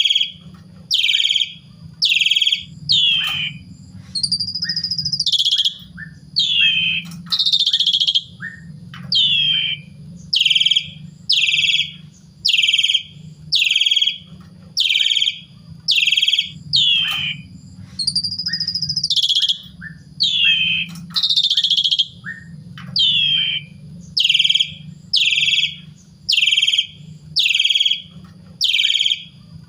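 Pied starling (jalak suren) calling over and over, a short, loud call about once a second, broken twice by a longer, drawn-out whistle. A steady low hum runs underneath.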